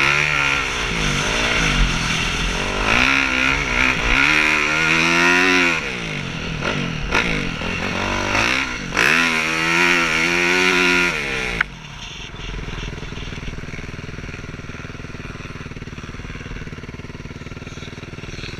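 Motocross bike engines revving hard, the pitch climbing and dropping repeatedly as the riders work the throttle and shift. About two-thirds of the way in the loud revving cuts off suddenly, leaving a quieter steady engine sound.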